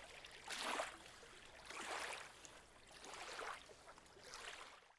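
Faint outdoor beach ambience: four soft swells of rushing noise, each under a second long and about a second apart.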